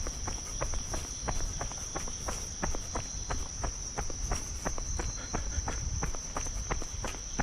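Insects trilling in a steady high-pitched tone, over rapid regular clicks at about four a second.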